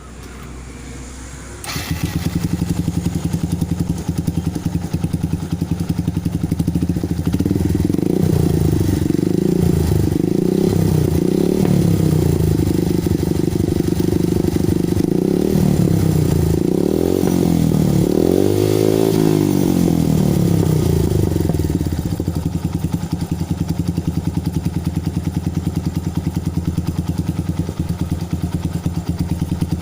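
Yamaha Byson's single-cylinder four-stroke engine through an aftermarket Akrapovic racing exhaust, running loud from about two seconds in. Through the middle the throttle is blipped repeatedly, in rising-and-falling revs, before it settles back to a steady idle, with another rev at the very end.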